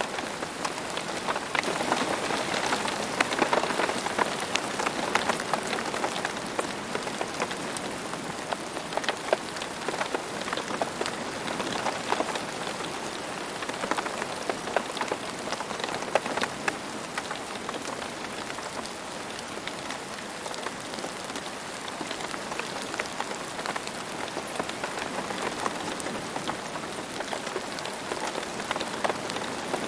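Steady rain falling on a hard surface, a continuous hiss dense with individual drop patters.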